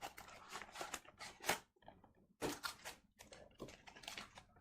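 Packaging being handled and opened: irregular short rustles and crinkles with small clicks, in quick bursts separated by brief pauses.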